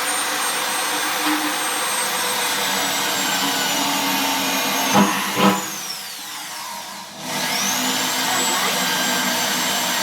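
Power drill running under load, drilling one of a ring of small holes, its high motor whine sagging slowly. About five seconds in there are two knocks, then the drill is released and spins down; a couple of seconds later it starts again and runs back up to speed.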